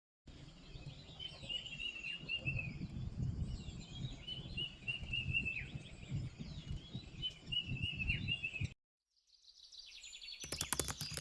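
A bird singing the same short phrase of quick, high notes several times over, with wind rumbling on the microphone. The sound cuts off abruptly, and a burst of rapid clicking follows near the end.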